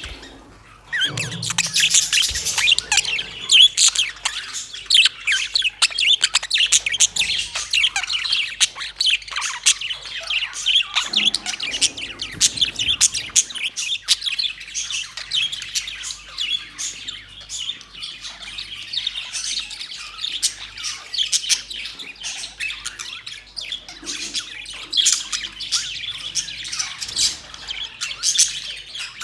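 A flock of budgerigars chattering, many birds at once giving quick overlapping chirps, warbles and squawks, dense and continuous after a brief lull in the first second.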